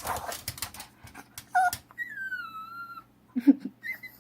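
A dog whining and squeaking to beg for food: a short squeak, then one long high whine that drops in pitch, followed by a lower yelp and another short squeak near the end. A patch of scratchy rustling comes first.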